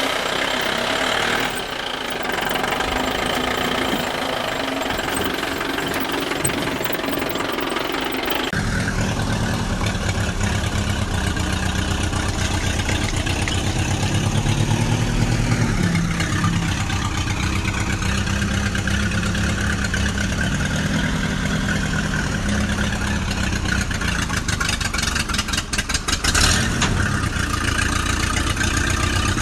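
Music for the first several seconds, then a tractor engine starts to be heard about eight seconds in and runs steadily at a low, even chugging beat.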